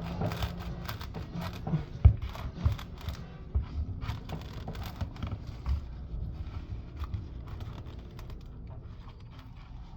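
Knife cutting and prying at a coconut's fibrous outer husk: scraping and tearing strokes with many small clicks, and one sharp knock about two seconds in.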